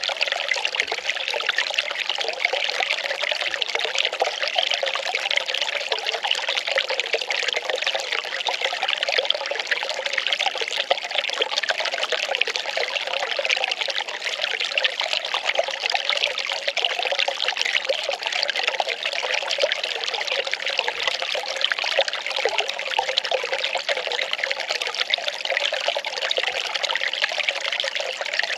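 Well water pouring and trickling in a steady, unbroken stream.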